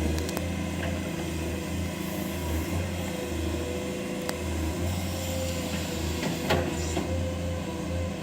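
Excavator's diesel engine running steadily, with a few scattered knocks about a second or more apart.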